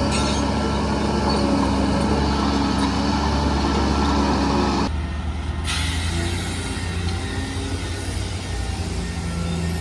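Heavy diesel earthmoving machinery running steadily. About five seconds in the sound changes abruptly to a different, slightly quieter engine note, soon joined by a steady hiss.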